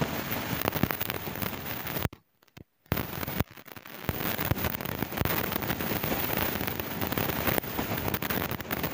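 Passenger train running at speed, heard from an open coach doorway: wind buffeting the microphone over the rumble and rattle of the coach, full of small crackles. About two seconds in the sound cuts out almost completely for under a second, then returns.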